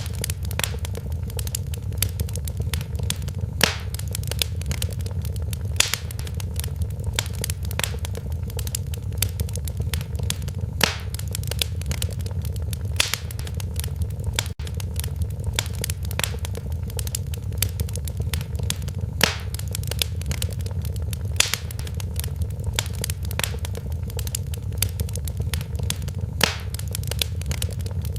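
Wood fire crackling in a fireplace: a steady low rumble of flames under frequent small snaps, with a few louder pops scattered through.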